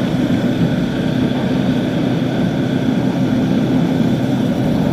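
Motorcycle engine running at a steady speed while riding, with a steady rushing noise over it.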